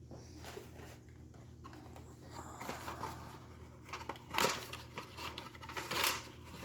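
Rustling and scraping of old cardboard boxes and packaging being handled, in irregular bursts that get louder about four and a half seconds in and again near the end.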